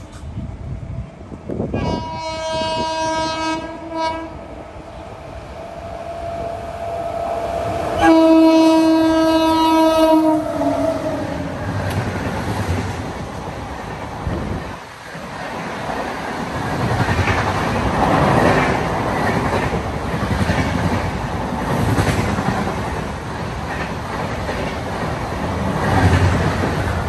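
Indian Railways locomotive horn sounding two blasts, the second longer and louder and dropping in pitch as it ends. The train then runs past at speed, its wheels clacking in a regular beat over the rail joints.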